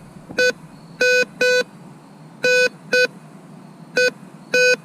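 Metal detector giving a target signal: about eight short electronic beeps, all at the same pitch and mostly in pairs. The detectorist reads the signal as a can.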